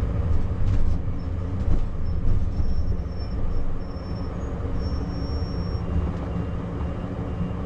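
RV engine running at a standstill, heard from inside the cab: a steady low drone.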